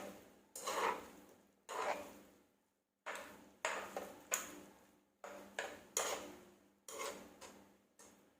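Kitchen utensils clinking and knocking against dishware about a dozen times, each knock fading over half a second or so.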